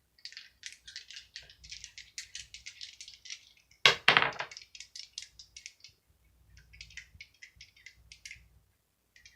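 Dice rattled together in a hand, a quick run of high clicks, then thrown down with one sharp clatter about four seconds in. Near the end they are shaken again.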